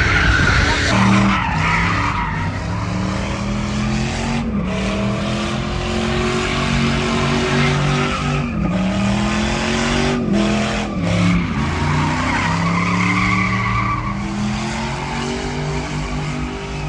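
Vehicle engine revving hard, holding high revs and stepping up and down every second or two, with tyres squealing as they spin: a burnout.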